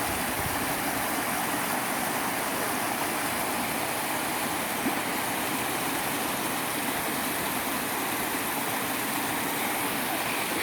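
Steady rush of creek water pouring over a natural rock slide.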